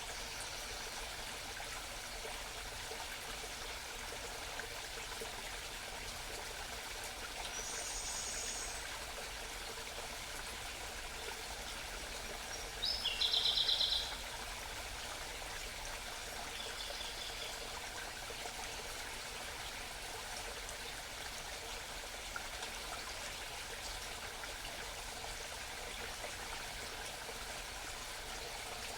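A small mountain stream babbling steadily, with a songbird singing over it: a short high phrase, then a loud rapid trill near the middle and a fainter trill a few seconds later.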